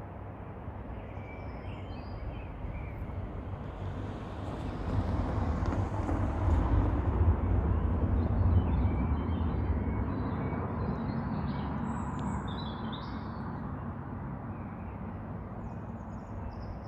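Small birds chirping here and there over a low rumble that swells from about four seconds in, peaks near the middle and slowly fades away, as a vehicle passes.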